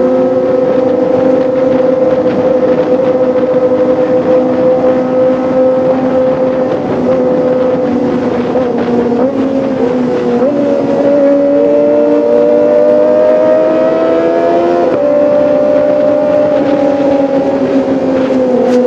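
Kawasaki ZX-25R's 249 cc inline-four engine running at high revs with a high, steady note. Its pitch sags a little about nine seconds in, climbs steadily for several seconds, then changes abruptly near the end, as at a gear change.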